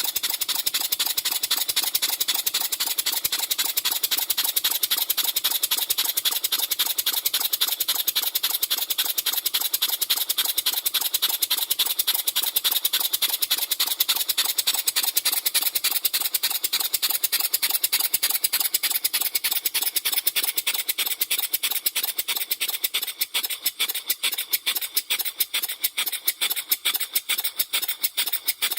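Victoria twin-cylinder model engine running fast, freshly assembled and with its valve timing just set, giving a rapid, even train of hissing exhaust beats. After about 23 seconds the beats become more separate, with quieter gaps between them.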